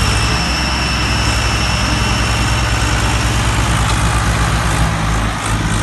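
Swaraj 744 and Farmtrac 60 tractors' diesel engines running steadily with a low, even pulse, as in a tractor tug-of-war. A thin high whine sounds over them for the first three seconds or so, then fades.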